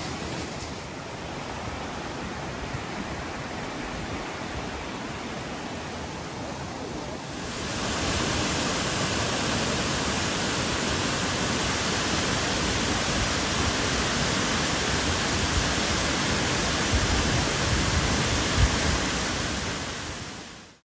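Creek water rushing steadily over rocks. About a third of the way in it gives way to the louder, fuller rush of a waterfall, which fades out at the end.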